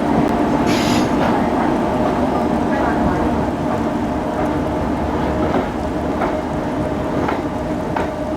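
Express passenger train rolling into the platform: a steady, loud rumble of wheels on track with scattered clacks and a short hiss about a second in.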